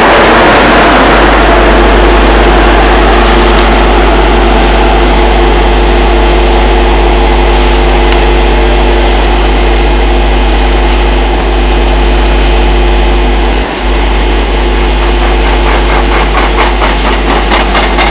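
Freight train hauled by a Class 92 electric locomotive passing close by with a long rake of empty flat wagons: a loud, steady rumble of wheels on rail under a steady electric hum. Regular clatter of wheels over the rail joints comes in over the last few seconds.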